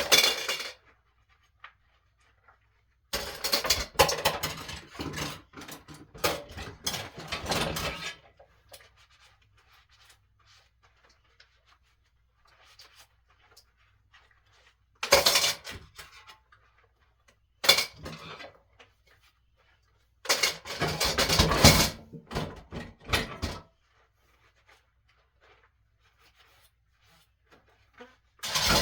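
Dishes, pots and cutlery clattering and clinking during washing-up by hand, in several separate spells of a few seconds with quiet gaps between.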